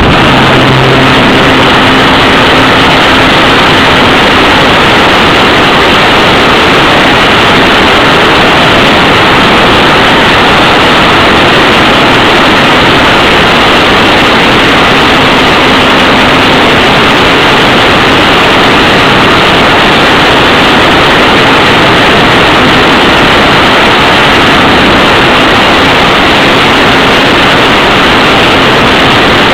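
Steady, loud rush of wind and propeller noise from a ParkZone F4U Corsair electric RC plane in flight, picked up by a camera on board, with a faint steady hum from its motor underneath.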